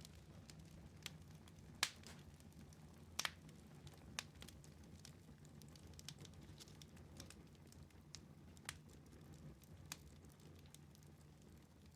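Wood fire in a fireplace crackling: irregular sharp pops, the loudest few in the first four seconds, over a low steady rumble of the flames.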